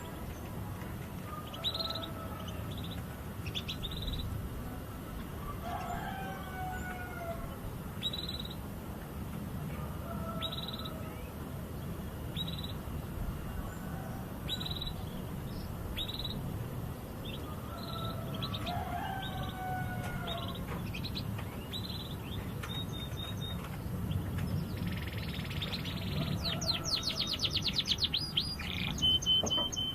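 Canary chirping with short high notes every second or two, breaking into a fast, rapid trill near the end.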